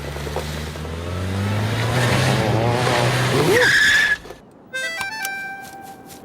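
Cartoon sound effects: a car engine running and rising in pitch, ending about four seconds in with a short tyre screech. A few short musical notes and a held note follow.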